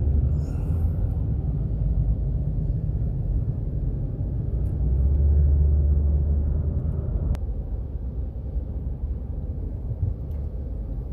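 Car cabin road and engine rumble while driving, steady and low, swelling slightly about halfway through. A brief click about seven seconds in.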